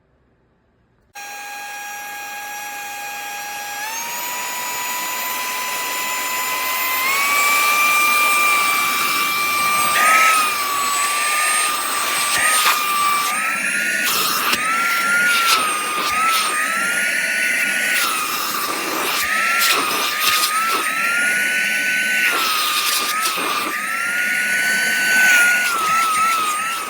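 Cordless handheld vacuum's brushless motor switching on with a high-pitched whine. It steps up in pitch twice in the first several seconds, then keeps running with the pitch repeatedly dipping and recovering.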